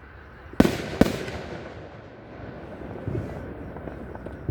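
Two firework bursts, sharp bangs about half a second apart a little after the start, followed by a long fading rumble and a softer thump about three seconds in.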